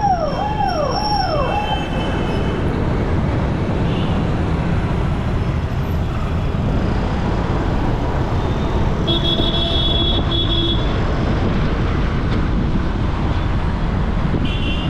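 Steady city road-traffic noise heard while moving through traffic. In the first two seconds a falling electronic chirp repeats about twice a second; around the middle a vehicle horn sounds for about a second and a half, and a brief high beep comes near the end.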